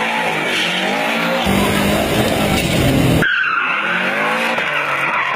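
Subaru Impreza WRX STI's turbocharged flat-four engine revving up and down while the tyres skid and squeal in a drift. The sound changes abruptly about three seconds in.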